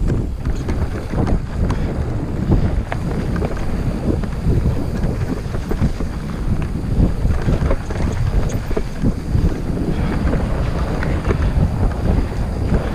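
Heavy wind rumble buffeting the microphone during a fast mountain-bike descent, with frequent small clicks and rattles from the bike over the rough trail.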